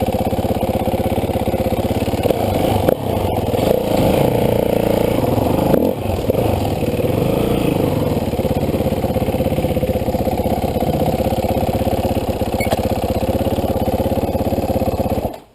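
Dirt bike engine running steadily, with a short rise in revs about four to six seconds in, then stopping abruptly near the end.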